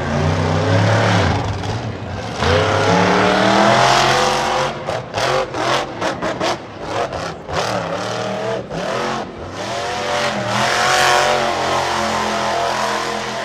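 Monster truck engine revving hard, its pitch climbing and falling, with a run of quick throttle blips that cut the sound on and off in the middle, then another long climb.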